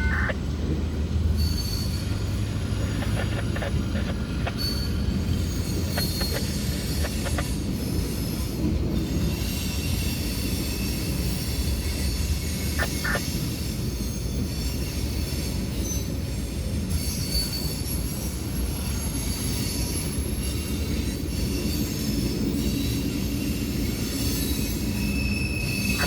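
CSX mixed freight train rolling past, its steel wheels on the rail giving a steady rumble. Thin high-pitched wheel squeal comes and goes over it, with a few sharp clicks now and then.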